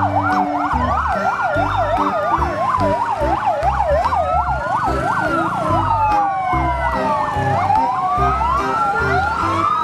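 Fire engine sirens sounding, a fast yelp overlapping slow rising and falling wails.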